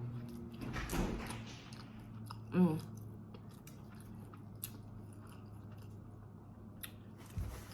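Close-miked mouth sounds of a person chewing a spoonful of Mexican rice, with faint small clicks and smacks and a short hummed "mm" about two and a half seconds in.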